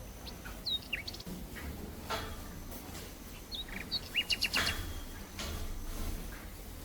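Wild birds chirping: a few short, quick calls around a second in, then a denser run of chirps around four seconds in, over a low steady rumble of outdoor background noise, with a brief rustle or two.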